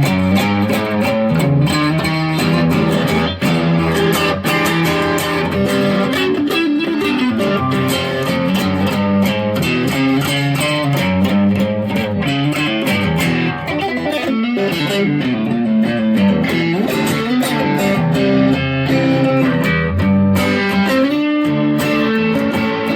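Electric guitar, the single-coil pickups of a Squier Affinity Stratocaster, played through a heavily saturated distortion tone in a blues style. Continuous single notes and phrases, some bent up and down in pitch.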